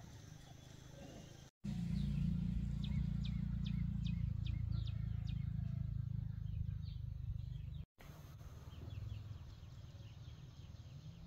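Small birds chirping in short, high, repeated calls over a steady low rumble. The rumble is loud through the middle and drops after a brief cut near the end, while fainter chirps go on.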